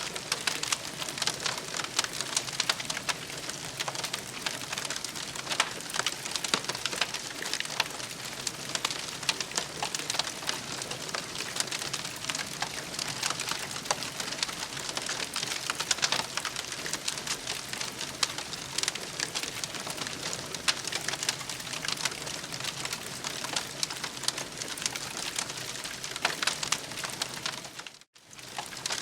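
Campfire crackling: a steady hiss thick with sharp pops and snaps, dropping out for a moment near the end.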